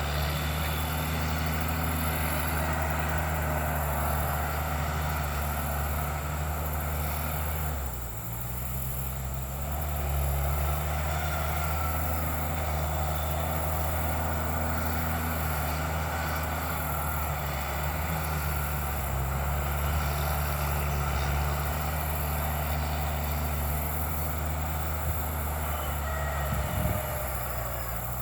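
Bulldozer's engine running steadily, with a brief dip in its note about eight seconds in before it picks up again.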